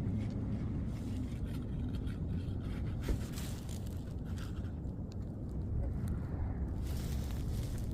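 A car running with a steady low rumble, with two short bursts of hissing: one about three seconds in and a longer one near the end.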